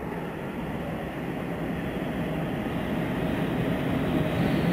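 A train approaching through a rail tunnel: a low rumble that grows steadily louder.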